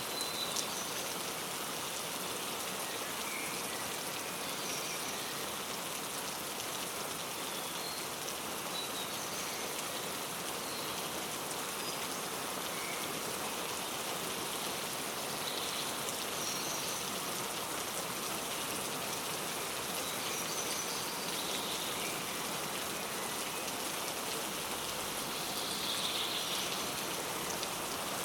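Steady rain falling, with scattered short bird chirps and calls over it.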